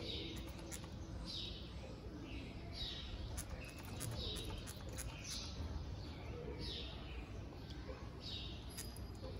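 A small bird calling over and over, a short falling chirp about once a second, over a faint low background rumble.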